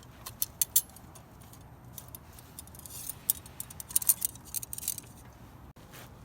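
Small metal items clinking and jingling as they are handled: quick clusters of sharp, light clicks near the start and again from about three to five seconds in.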